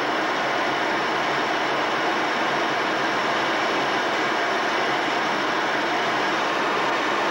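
Steady in-flight cabin noise inside an E-3D Sentry AWACS aircraft: an even, unbroken rushing hiss.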